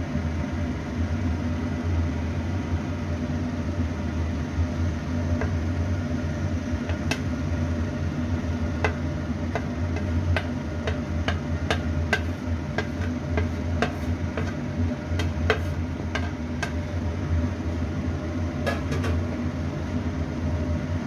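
A spoon clinking and tapping against a metal pot and plate as cooked rice is spooned over the chicken: a long run of light, irregular clicks, over a steady low hum.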